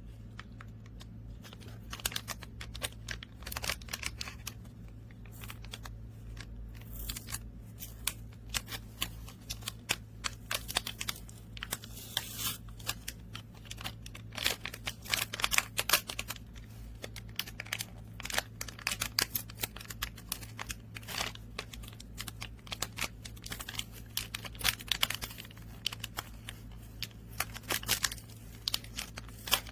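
Many sharp, irregular clicks and light crinkling, coming in quick clusters, over a steady low hum.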